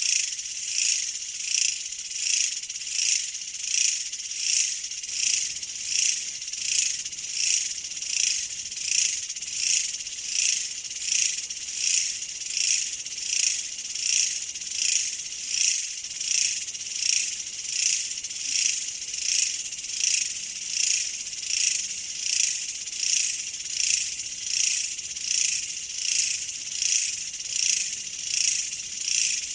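Insect chorus: a shrill, high buzzing that pulses in an even rhythm, swelling a little more than once a second, without a break.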